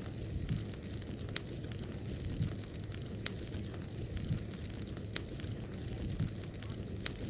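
Bonfire burning: a steady low rush of flame with sharp crackling pops from the burning wood, the loudest about every two seconds.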